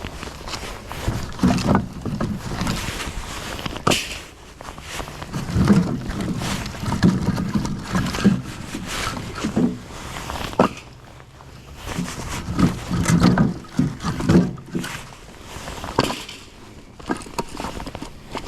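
Split firewood being stacked into a rack: irregular wooden knocks and heavier clunks as pieces are set down on one another.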